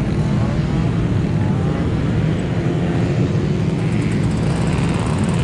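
Car engines running, a steady low engine sound with faint rising and falling revs above it.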